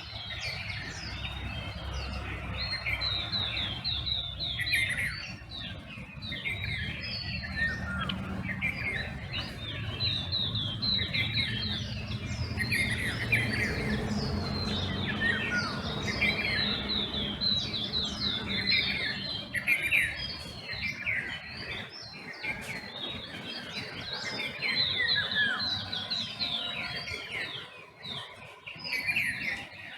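Dawn chorus of many small birds chirping and trilling at once, one call over another. A low rumble sits underneath and fades out about two-thirds of the way through.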